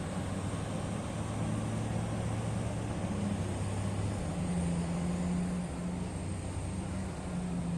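Heavy diesel earthmoving machine running steadily with a low drone, its engine note shifting slightly about halfway through.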